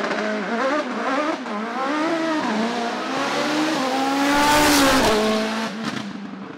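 A hillclimb race car's engine revving hard, its pitch climbing and dropping again and again with the gear changes. It is loudest as the car passes close about four to five seconds in, then fades away.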